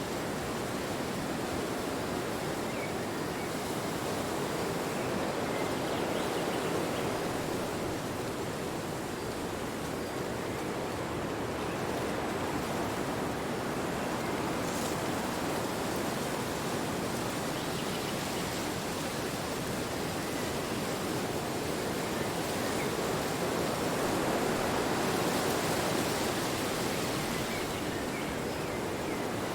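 Wind blowing steadily as a continuous rushing noise, swelling and easing slowly, loudest about a quarter of the way in and again near the end.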